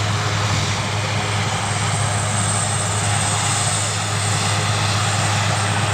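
Rescue helicopter running steadily, a constant engine and rotor noise with a strong low hum.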